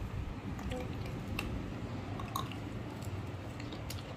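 Someone chewing breaded fried chicken wings, with scattered small clicks and taps.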